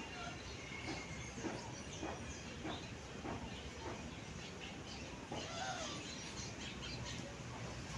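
Faint outdoor background with scattered short bird chirps.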